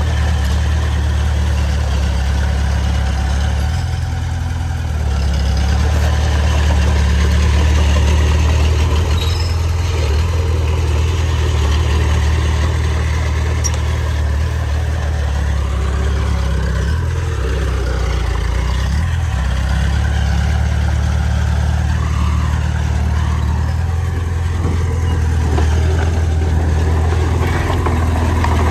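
A bulldozer's heavy diesel engine running steadily under working load. Its low drone dips briefly about four seconds in and shifts in pitch a few times later as the load changes.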